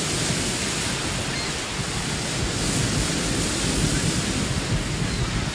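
Heavy surf in a rough sea: large waves breaking, a steady rush of water noise.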